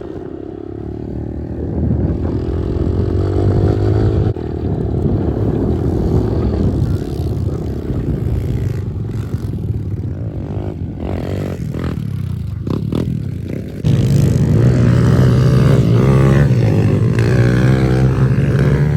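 Pit bike engine running and revving up and down as it is ridden. About two-thirds of the way through it suddenly gets louder and holds a steadier, higher drone.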